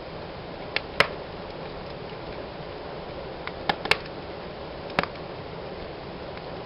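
Wood fire burning in a fireplace with a steady low hiss, broken by sharp crackles and pops: two close together about a second in, another pair near four seconds and a single pop at five seconds.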